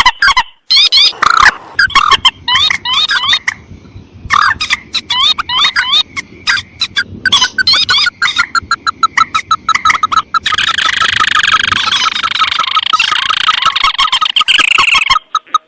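Bird-lure playback of rice-field rail calls, mandar and tikusan crakes, spliced together: rapid, loud repeated call notes broken by abrupt cuts. From about ten seconds in they merge into a continuous fast run of notes.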